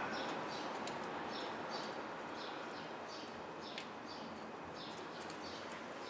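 A small bird chirping over and over, one short falling chirp about every 0.6 s, over a steady background hiss.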